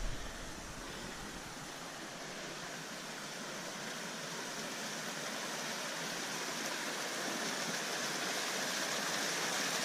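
Steady rush of mountain water from the canyon's creek and waterfall, a continuous hiss that grows gradually louder.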